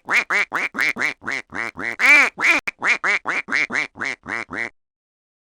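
Duck quacking rapidly, about twenty short quacks in a quick run that stops shortly before the end.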